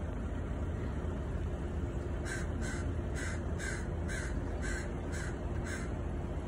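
A bird calling repeatedly: eight short calls at about two a second, starting about two seconds in, over a steady low rumble.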